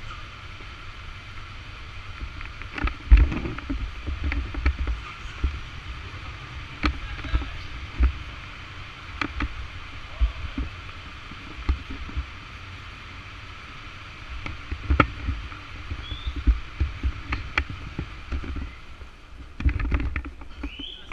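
Wind buffeting the microphone in irregular low gusts over a steady hiss of road and engine noise during a motorcycle ride, with scattered sharp clicks and knocks.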